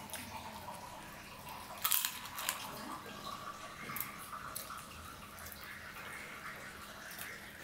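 Close-miked eating by hand: wet mouth clicks and smacking while chewing a mouthful of koi fish curry and polao rice, with fingers gathering food on a steel plate. The loudest is a cluster of sharp clicks about two seconds in.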